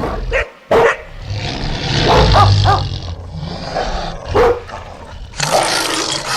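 Bulldog barking and growling, used as a cartoon dog's voice: a sharp bark about half a second in, a quick run of three barks around two seconds, another bark past four seconds, then a harsh, rough growl from about five and a half seconds.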